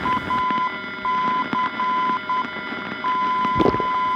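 A single high beeping tone keyed on and off in short and long beeps, like Morse code, over a steady radio hum and whine. About three seconds in the tone holds steady, and a brief knock comes just after.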